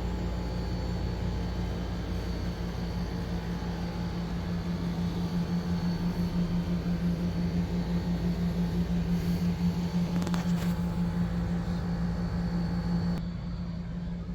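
A vehicle running steadily: a constant hum over a low rumble and hiss. The sound drops suddenly and becomes quieter near the end.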